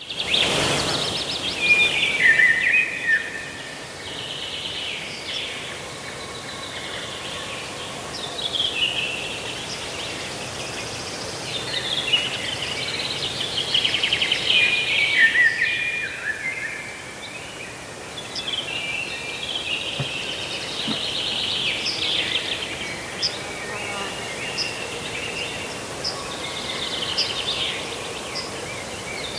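A songbird singing repeated warbling, trilling phrases every few seconds over a steady outdoor background hiss.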